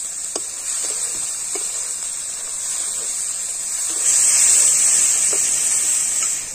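Spice paste sizzling in hot oil in a metal kadai while a steel spatula stirs it, with a few light clicks of the spatula against the pan. The sizzle grows louder about four seconds in.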